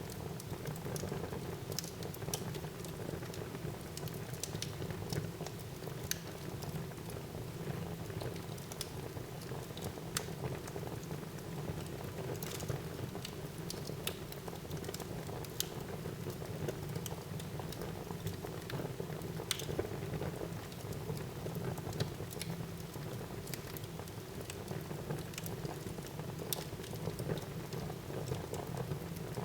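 Wood fire burning in a fireplace: a steady low rush of flames with irregular sharp crackles and pops about every second or two.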